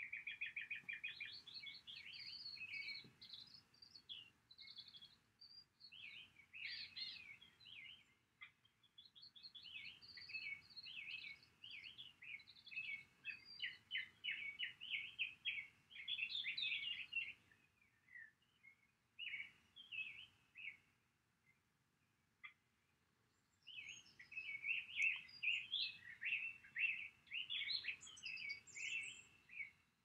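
Birds chirping in quick, dense runs of high notes and trills. They thin out to a few scattered notes for several seconds past the middle, then pick up again.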